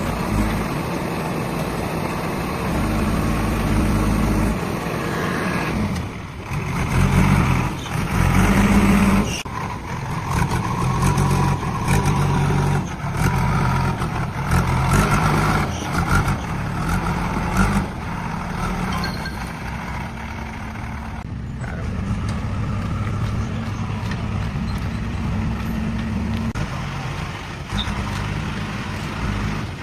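Heavy diesel engine running, rising in louder surges with some knocks through the middle.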